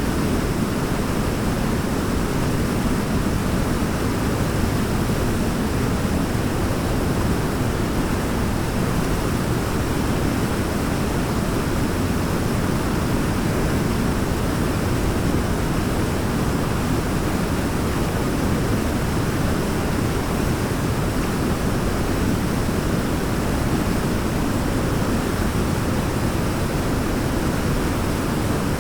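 Waterfall: a steady, unbroken rush of falling water, deepest in the low range, with no change in level throughout.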